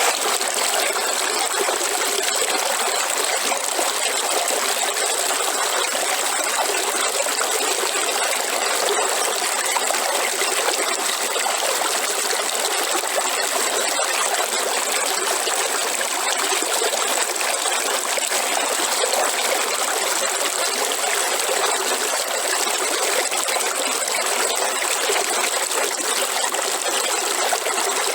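Waterfall: a steady, unbroken rush of falling water, with little bass.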